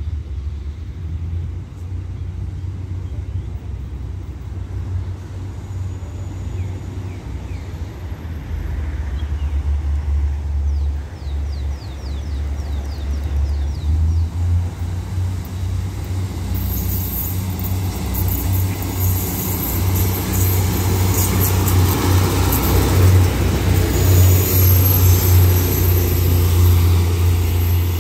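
Diesel multiple-unit train approaching and growing steadily louder, a low rumble that builds into engine and wheel-on-rail noise with a high hiss over the last ten seconds as it draws up.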